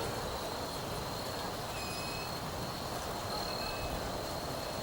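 Steady background noise, an even rumbling hiss, with a faint high steady whine that fades in and out and two short high chirps, about two seconds in and again near the end.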